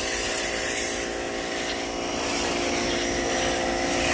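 Pressure washer running steadily: a constant motor hum with the hiss of the water spray over it.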